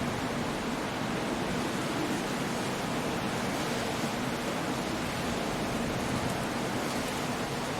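Coastal storm ambience: wind, rain and sea surf blended into an even, steady rush of noise with no separate crashes or gusts standing out.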